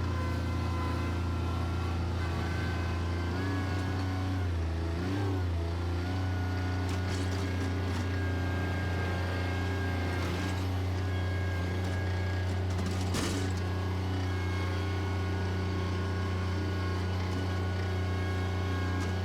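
Bobcat tractor's engine running steadily, its pitch dipping briefly about four to five seconds in before settling back. A single sharp clack about thirteen seconds in.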